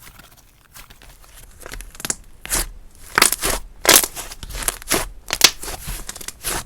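Slime being squished and pressed by hand, giving irregular sticky crackles and pops that grow louder and more frequent after the first couple of seconds.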